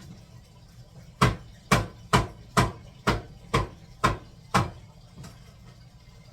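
Knife chopping a young, unpeeled mango on a cutting board: eight sharp strokes about half a second apart.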